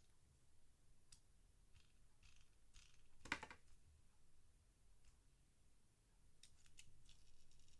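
Faint handling sounds of a small die-cast toy truck being fiddled with: scattered light clicks and rustles, with one sharper click about three seconds in and a quick cluster of clicks near the end.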